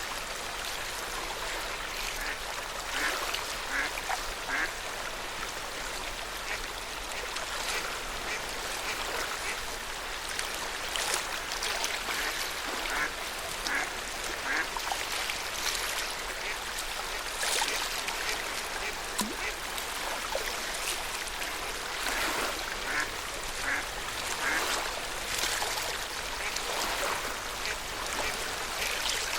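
Lake water lapping steadily at the shore, with short bird calls, likely waterfowl, scattered throughout.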